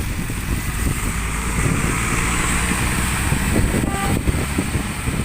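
Alexander Dennis Enviro400 double-decker bus passing, its engine running and tyres hissing on the wet road, the hiss swelling through the middle and easing toward the end. Gusting wind buffets the microphone.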